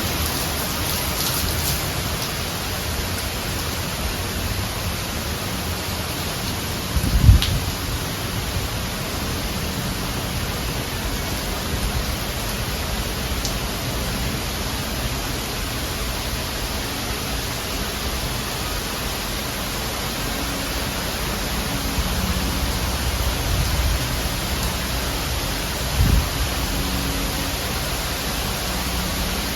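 Steady heavy rain, a thunderstorm downpour, with two brief low thumps about seven seconds in and again near the end.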